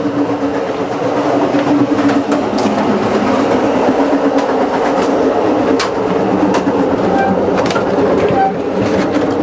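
Running noise of a moving Amtrak passenger train heard from inside the cars: a steady rumble and low hum from the wheels on the track, with scattered sharp clicks and rattles.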